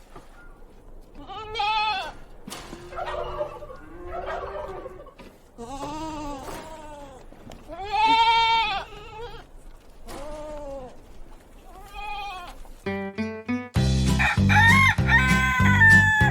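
Goats bleating: about six separate arching bleats, each under a second, spaced over the first thirteen seconds. About thirteen seconds in, a music jingle starts, and a rooster crows over it near the end.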